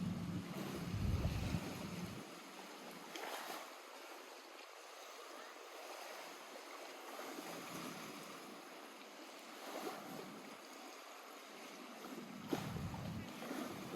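Lake water lapping gently at the shore as a steady wash. Wind buffets the microphone with a low rumble in gusts, once at the start and again near the end.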